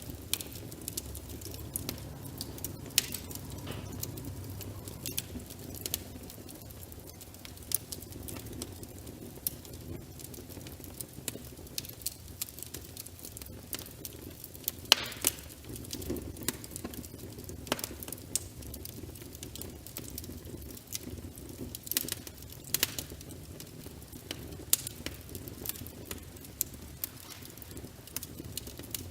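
Wood fire crackling in a fireplace: a low steady rumble of flames under frequent irregular crackles and sharp pops, a couple of louder pops about halfway through and again around three-quarters of the way in.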